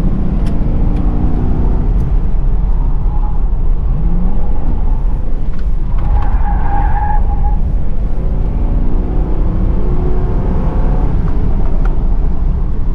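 Car being driven hard, heard from inside: a loud, steady low rumble of engine and road noise with the engine pitch rising and falling as it revs, and a brief high squeal about six seconds in.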